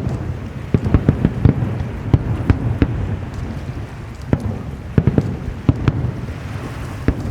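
Aerial fireworks going off: a rapid, irregular run of bangs and crackles over a continuous low rumble. The bursts thin out about halfway through, then pick up again.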